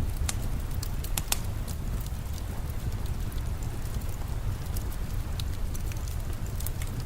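Wood fire crackling in a fireplace: irregular sharp pops and snaps, thicker in the first second or so, over a steady low rumble of the flames.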